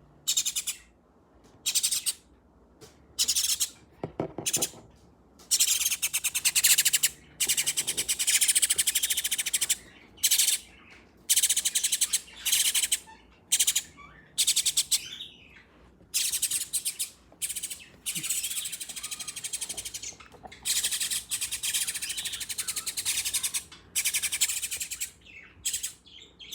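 Nestling birds giving harsh, buzzy begging calls in repeated bursts, each from a fraction of a second to about two seconds long, with short pauses between.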